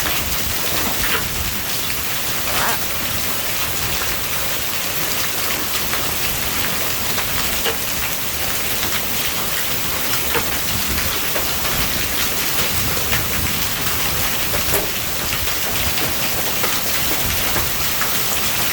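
Hailstones and heavy rain pelting down hard: a dense, steady hiss with many sharp ticks of hailstones striking.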